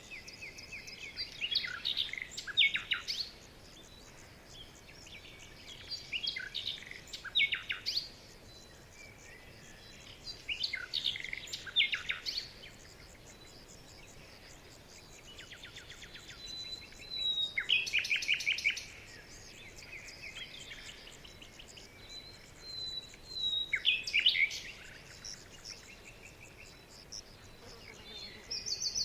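A songbird singing short phrases of quick, falling chirps, each about two seconds long and repeated every four to six seconds, over a faint steady hiss.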